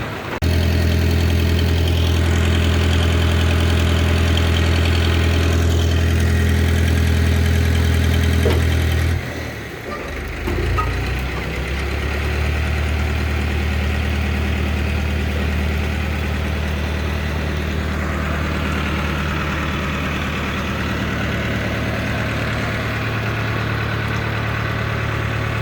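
Heavy diesel engine running steadily, with a brief dip about nine seconds in before it settles into a slightly quieter steady run.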